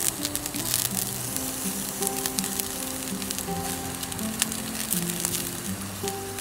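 Food sizzling and crackling in a hot pan, with background music of held notes.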